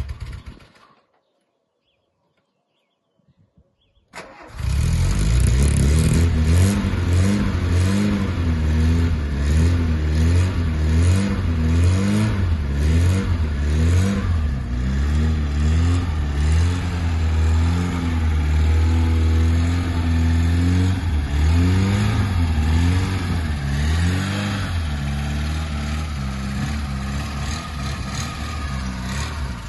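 Volkswagen Mk1 engine catching on a cold start about four seconds in, after a short pause, then revved unevenly with the throttle rising and falling to keep it alive after standing all winter. It settles toward a steadier, quieter run near the end.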